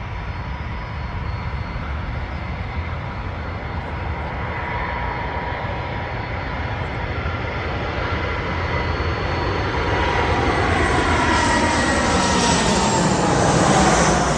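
Airliner's jet engines, growing steadily louder as the plane approaches, with a whine that drops in pitch near the end as it passes closest.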